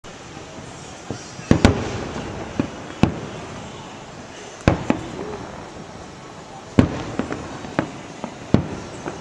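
Fireworks bursting: a string of sharp bangs at irregular intervals, roughly one to two a second, some in quick pairs, over a steady background hum.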